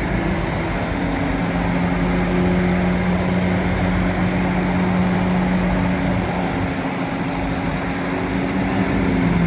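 Bulldozer's diesel engine running steadily: a loud, even hum that holds one pitch over a rough rumble.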